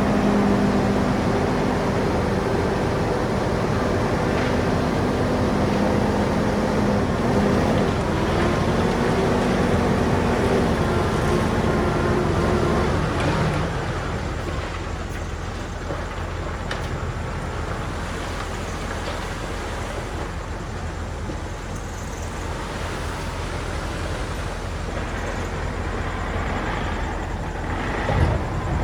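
Heavy diesel machinery running steadily. A droning engine note holds for about the first 13 seconds, then drops back to a lower rumble, with a brief knock near the end.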